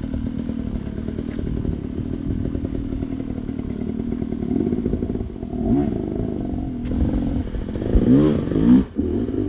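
Enduro motorcycle engine running at a steady pitch, then revved from about halfway, its pitch rising and falling, loudest near the end.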